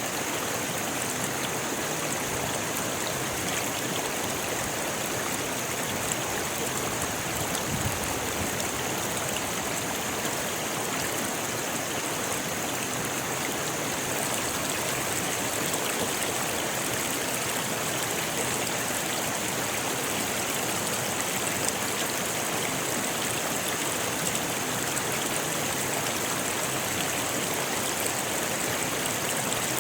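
A rocky river running steadily, water rushing and splashing over stones in a continuous even hiss.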